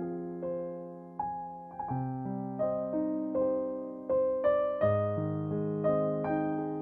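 Background music: a gentle piano melody, single notes and chords struck every half second or so, each ringing and fading.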